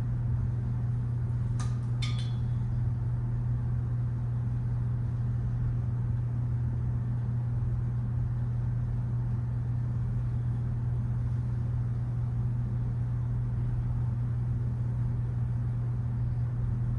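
A steady low hum, with two short metallic clicks about two seconds in.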